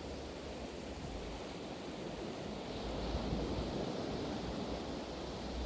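Ocean surf washing steadily, swelling a little about three seconds in, with low wind rumble on the microphone.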